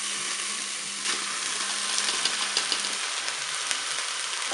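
Cooked rice, green beans and mushrooms tipping from a metal strainer into a hot multicooker bowl on its browning setting, sizzling steadily in olive oil with many small crackles.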